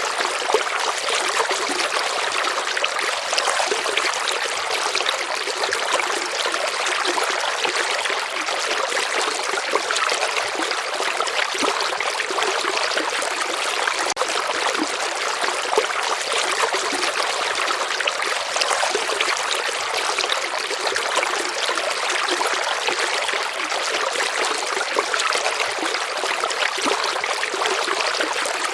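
A river flowing: a steady, unbroken sound of moving water, mostly high-pitched, with little deep rumble.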